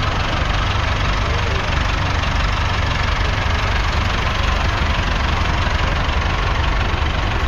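Four-cylinder 3.9-litre diesel engine of a 1982 Trantor Series I tractor idling steadily, with a deep rumble.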